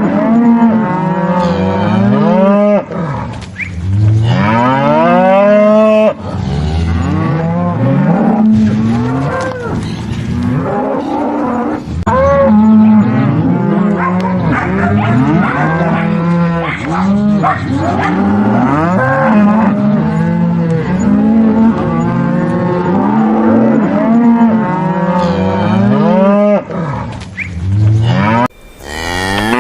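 Cattle mooing: many long, overlapping calls, one after another, each rising and falling in pitch.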